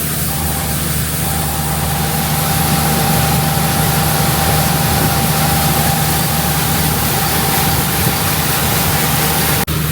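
Combine harvester's diesel engine running steadily under load, with a thin steady whine above the engine drone. The sound drops out for an instant near the end.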